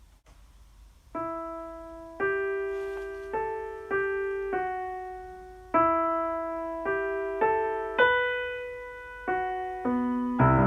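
Piano playing a slow melody of single struck notes, each left to ring and fade, after about a second of near quiet; near the end low notes come in and it grows fuller and louder.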